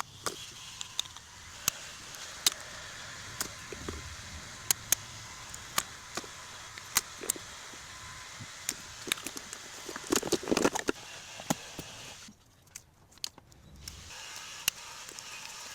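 Workshop tool noise: irregular sharp metallic clicks and taps over a steady hiss, with a denser clatter about ten seconds in and a short quiet gap a little after.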